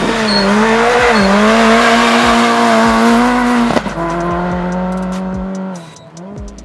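VW Polo rally car engine running hard at high revs, with tyre and gravel noise under it. About four seconds in, the engine note steps down sharply and runs on lower, then fades near the end.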